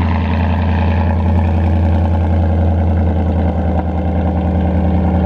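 Ford Mustang GT's 5.0-litre V8 idling through its exhaust shortly after a cold start, after sitting off all day. It runs steadily, its pitch stepping down slightly about three and a half seconds in.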